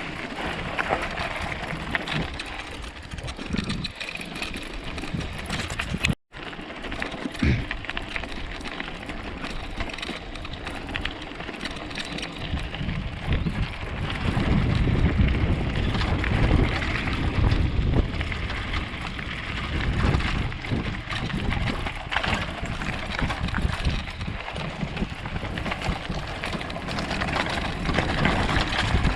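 Outdoor wind noise on the camera microphone: a steady rushing noise that turns into a louder, gusty low rumble about halfway through.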